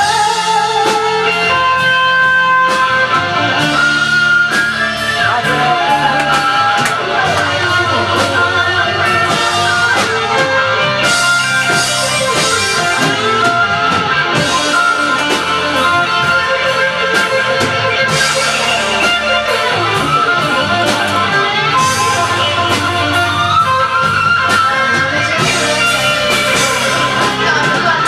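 A rock band playing: an electric guitar leads with bending notes over bass and a drum kit.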